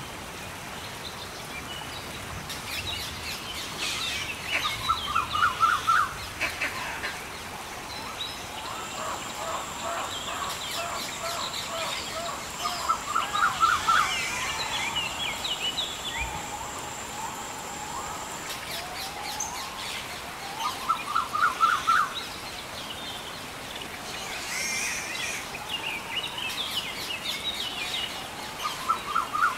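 Wild birds calling and chirping over a steady background hiss, with one bird's short trilled phrase repeating about every eight seconds. A thin, high, steady whine runs for about ten seconds in the middle.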